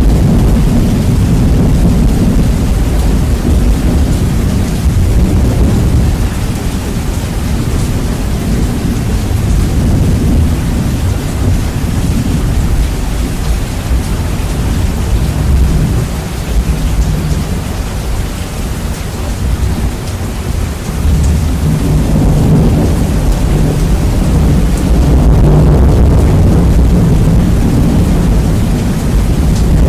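Heavy rain with rolling thunder, bass boosted and overdriven so that a dense, distorted low rumble dominates. The rumble eases off for a few seconds past the middle and swells again near the end.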